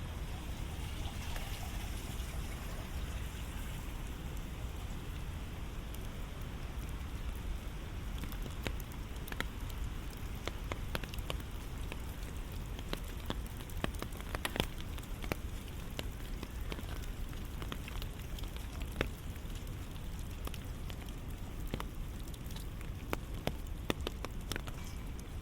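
Steady rain falling, with many separate sharp drop hits scattered through it, most of them in the middle and again near the end.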